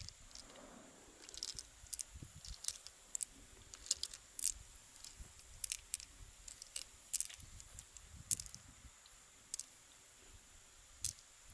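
Clams being handled: irregular sharp clicks of shell on shell with soft wet squishing sounds.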